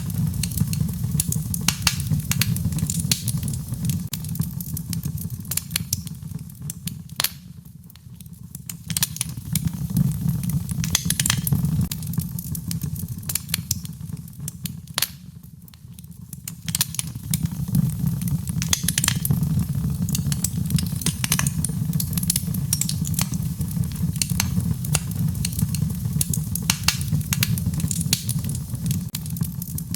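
Wood fire crackling in a fireplace: frequent sharp pops and snaps over a low, steady rumble of burning. It eases off briefly twice, about eight and sixteen seconds in.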